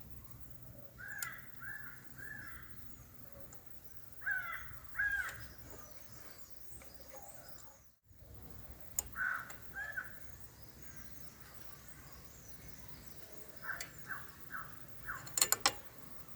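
A crow cawing in short runs of two or three calls, repeated several times. A few sharp clicks come near the end and are the loudest sounds.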